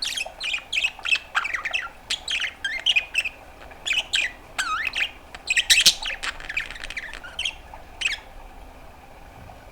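Budgerigar chattering in a fast run of short squawks and chirps, several a second, each sweeping quickly up or down in pitch; the run stops about eight seconds in.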